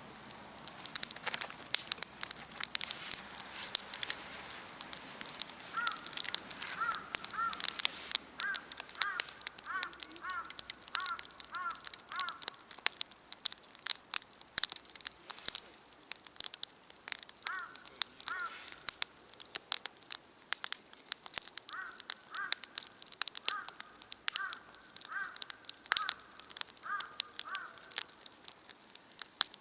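Wood campfire crackling with frequent sharp pops throughout. Over it a crow caws in three bouts of short repeated calls, about two a second, the first starting about six seconds in.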